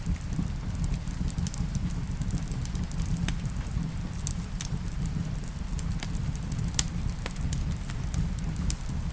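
Wood fire crackling, with irregular sharp pops and snaps over a steady low rumble, mixed with the even hiss of rain. One pop, a little under seven seconds in, is the loudest.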